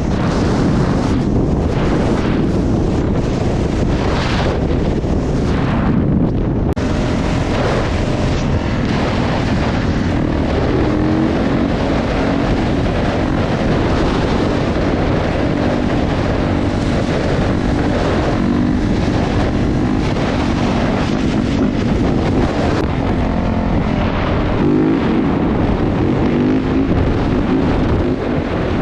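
Motorcycle being ridden: heavy wind noise on the microphone over the engine, whose pitch rises and falls with the throttle.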